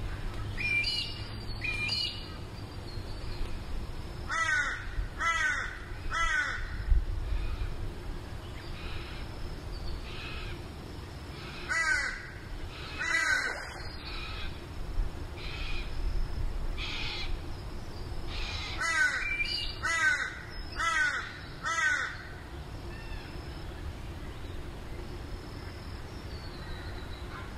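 Bird calls: a repeated call, each note falling in pitch, given in groups of two to four with pauses of several seconds between groups. A few thinner, higher whistled notes come in the first couple of seconds.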